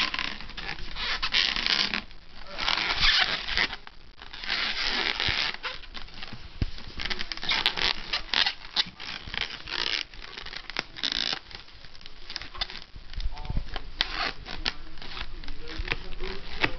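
Latex twisting balloon rubbed and twisted by hand into a balloon animal: a run of scratchy rubbing and scraping noises in irregular bursts with brief pauses.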